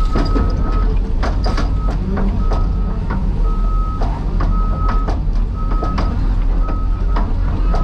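Heavy diesel construction machinery running, with a reversing alarm beeping about once a second and scattered sharp knocks.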